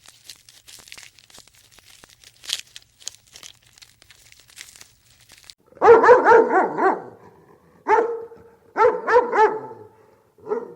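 A dog barking in quick runs of several barks, after a few seconds of faint clicks and rustling.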